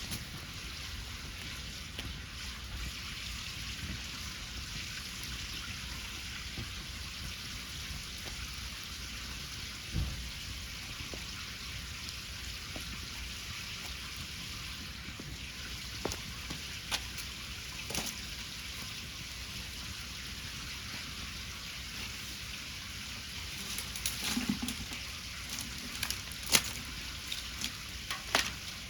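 Wood fire burning with a steady hiss and occasional sharp crackles and pops, which come more often near the end.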